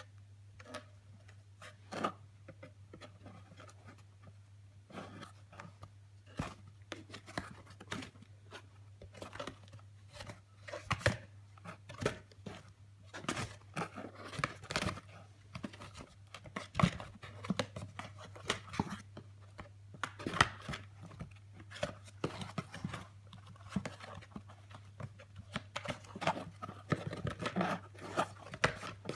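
Irregular scratching, tapping and rustling on a cardboard box as a cat's paws swat at fingers poking through holes in it, sparse at first and busier from about ten seconds in. A steady low hum sits underneath.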